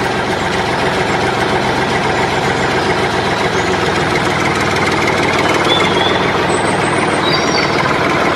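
Engine idling steadily, with the deep, even running of a tractor or truck.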